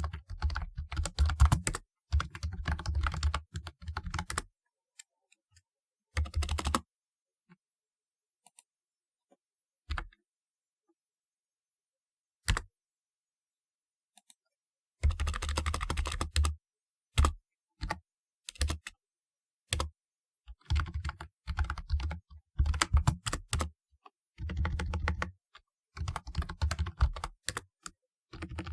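Typewriter-style keyboard being typed on: quick runs of clacking keystrokes in bursts, broken by pauses. For several seconds around the middle there are only a few single key presses before fast typing resumes.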